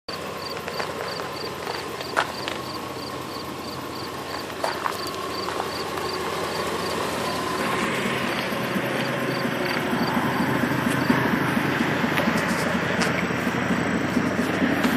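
Chevrolet S10 pickup running, with a steady sound that grows louder about halfway through. A faint high-pitched tick repeats about three times a second through the first half, with a few sharp clicks.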